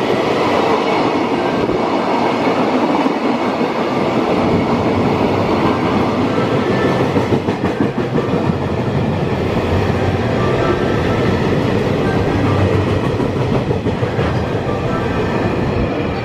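Freight train passing through at speed: a loud, steady rumble of wagons and wheels running on the rails, with some clickety-clack of the wheels over rail joints.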